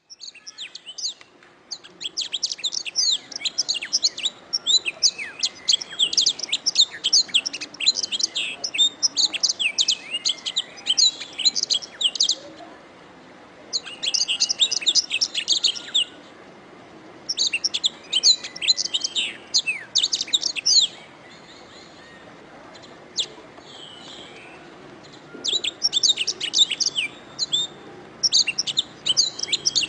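Domestic canary singing: long runs of fast, high trills and rolls in bursts, broken by short pauses and a longer lull about two-thirds of the way through.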